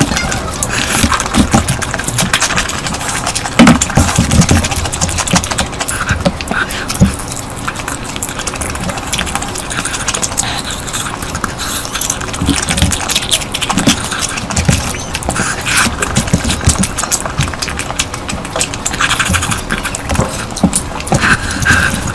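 Close-miked eating sounds: chewing and lip-smacking, with many small clicks and irregular low thumps.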